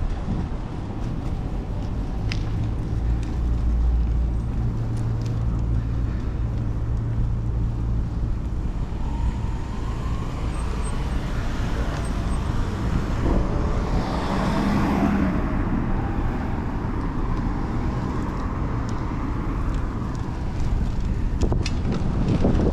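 Downtown road traffic heard from a moving bicycle: a low, steady engine hum for the first several seconds, then a vehicle passing by near the middle, over a constant rush of road and wind noise.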